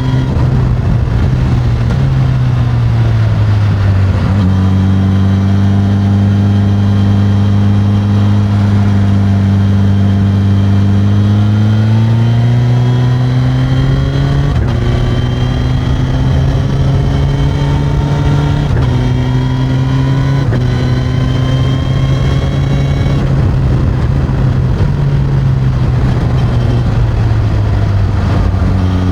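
Suzuki GSX-S1000's inline-four engine through its stock exhaust, heard from the seat while riding. The revs drop about two to four seconds in, hold low and steady, climb again about twelve seconds in, shift in steps through the middle, and fall away near the end before picking up once more.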